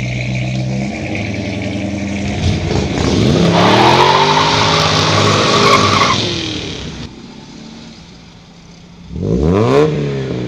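A car engine revving hard as the car pulls away, its pitch climbing then falling, with a few seconds of tyre squeal and skidding that cuts off suddenly. About nine seconds in comes another sharp rev, rising and falling.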